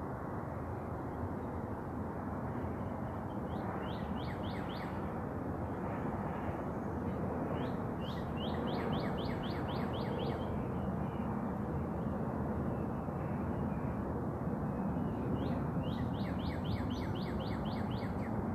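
A songbird singing three phrases a few seconds apart, each a quick run of sharp, repeated slurred whistles, over a steady background rush.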